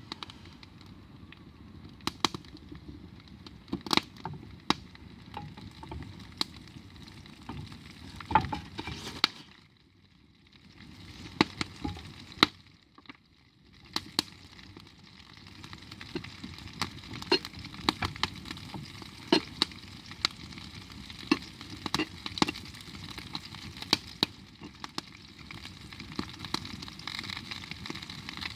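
Food frying over a campfire: a steady sizzle with irregular sharp pops and crackles. The sizzle drops away briefly about ten seconds in and again around thirteen seconds.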